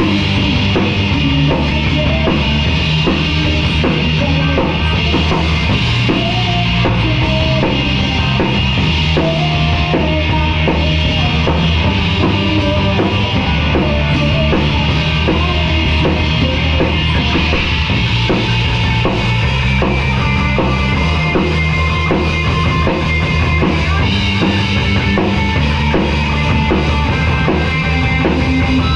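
Live band playing rock music, driven by a drum kit with bass drum and snare keeping a steady beat.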